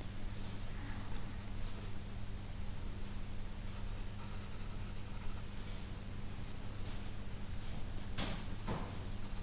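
Pencil scratching on sketch paper in a run of short, irregular strokes as fur is sketched in.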